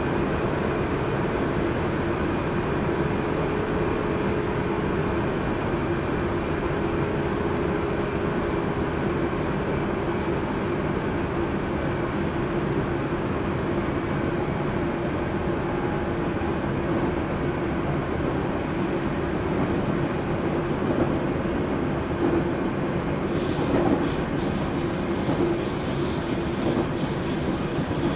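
JR Central 373 series electric train running along the line, heard from inside the leading car: a continuous rumble of wheels on rail with a steady hum. About 23 seconds in, a brighter hiss joins the rumble.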